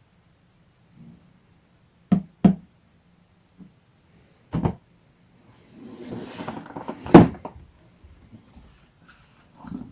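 Cardboard box and packaging being handled while unpacking a fan heater. There are two quick knocks about two seconds in and another a couple of seconds later. Then comes a stretch of rustling and scraping with a sharp knock in the middle of it, and a softer thump near the end.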